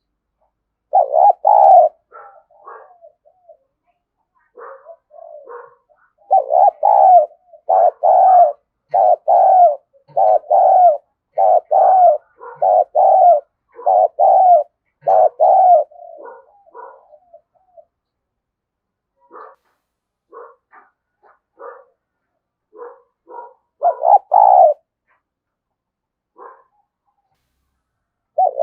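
Spotted doves cooing. A run of loud coos comes at a steady pace of about one a second through the middle, with fainter coos between and a second loud burst near the end. These are the excited calls used as a decoy to stir up wild doves.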